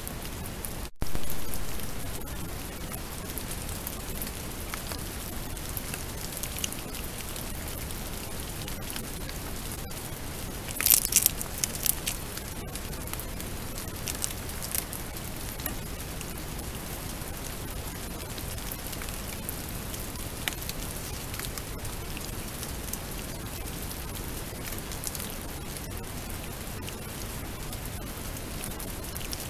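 Steady heavy rain falling, an even hiss, with a brief cluster of sharp clicks about eleven seconds in.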